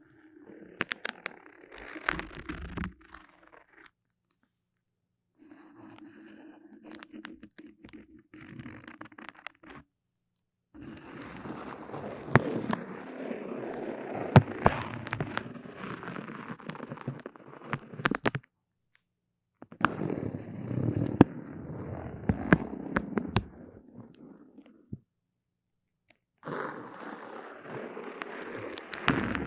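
Close-miked ASMR sticky sounds: crackling and sharp clicking from something tacky being handled, in five stretches broken by short gaps of dead silence.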